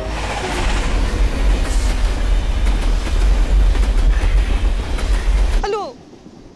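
Suburban electric train passing close by at speed, a loud rumbling rush with wheels clattering over the rails. It cuts off abruptly near the end to a much quieter background.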